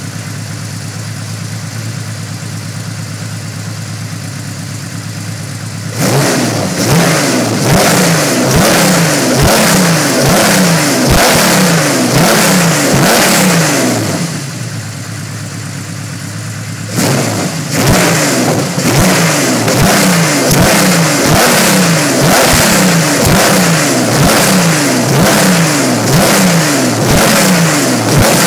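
Porsche 964's air-cooled flat-six breathing through a one-off custom muffler: idling steadily, then blipped repeatedly in quick rising revs about six seconds in, settling back to idle for a few seconds, then revved again in repeated blips.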